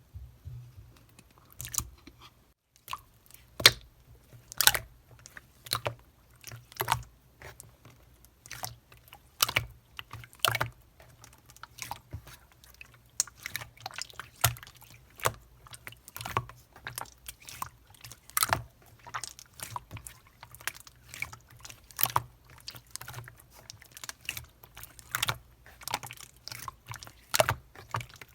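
Slime being squeezed and pressed by hand, giving irregular crisp pops and clicks about once a second.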